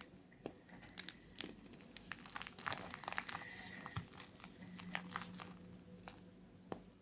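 White gym chalk being crushed and crumbled, giving an irregular run of crisp crunches and crackles that is busiest around the middle.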